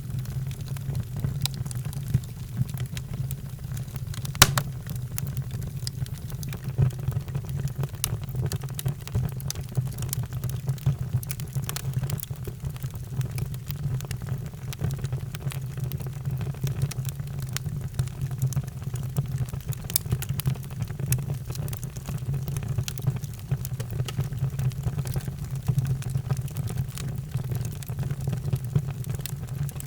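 Wood fire in a fireplace crackling and popping over a steady low rumble, with one sharper pop about four and a half seconds in.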